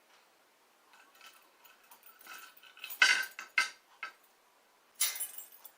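A bunch of metal keys jingling and clinking in short bursts, loudest about three seconds in and again near the end.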